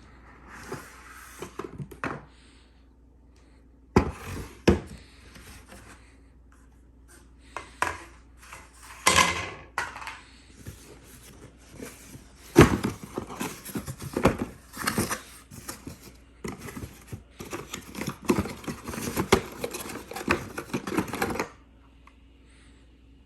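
Unboxing handling sounds: packaging rustling and scraping, with sharp knocks and clicks as parts are taken out, stopping a couple of seconds before the end.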